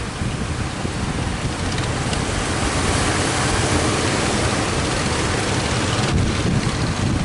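Strong wind buffeting the microphone over a steady rushing wash of surf.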